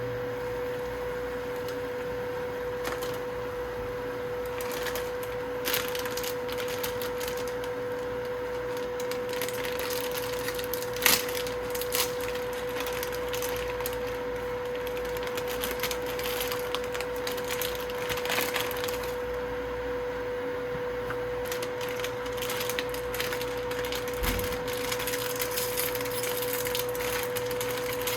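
Scattered clicks, knocks and rustles of things being handled, over a steady high-pitched hum.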